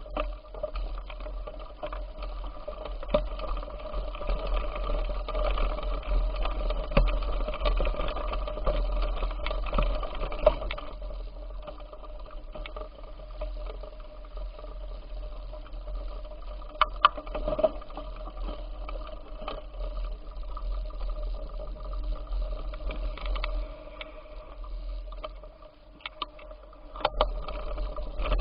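Bicycle in motion: a steady rolling and rattling noise with scattered clicks and knocks.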